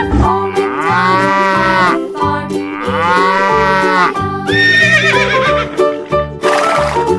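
Two long, drawn-out animal calls, each rising and then falling in pitch, followed by a shorter higher call, over background music with a steady bass line.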